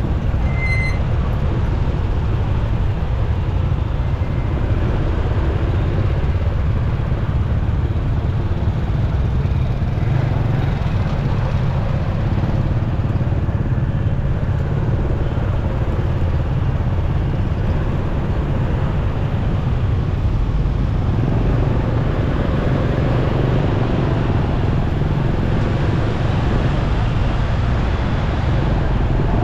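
Riding a motorcycle in city traffic: a steady low rumble of wind and engine on the microphone, with the noise of surrounding traffic. A brief high beep sounds about a second in.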